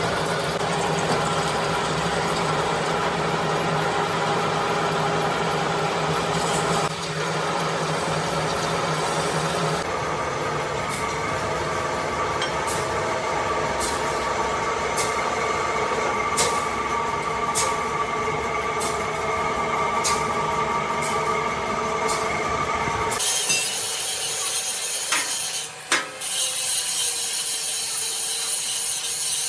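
Workshop lathe running as it machines a compressor crankshaft: a steady mechanical run with a regular light tick about once a second through the middle. The sound changes suddenly about 23 seconds in.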